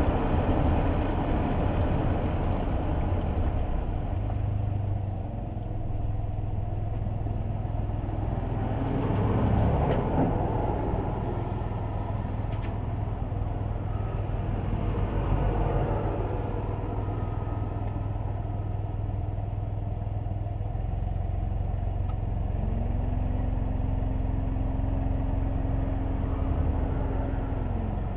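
Road noise inside a kei car driving on wet roads: a steady low rumble of engine and tyres, with a passing vehicle swelling by about ten seconds in and another fainter pass a few seconds later. A steady hum joins for about five seconds near the end.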